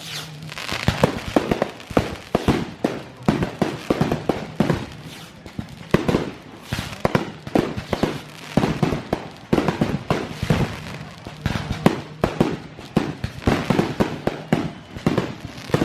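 Fireworks show exploding: many sharp bangs in rapid, irregular succession with no break.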